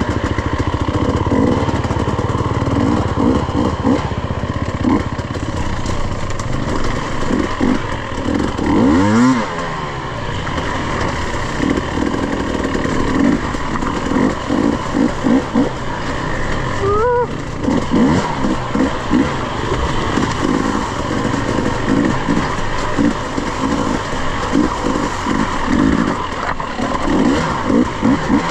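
Dirt bike engine under way on a trail, the throttle opening and closing unevenly, with the revs sweeping up sharply about nine seconds in and again near seventeen seconds.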